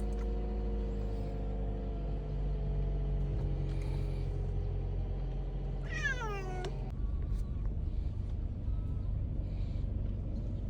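A cat meows with one long, falling meow about six seconds in, over the steady low rumble of a moving car.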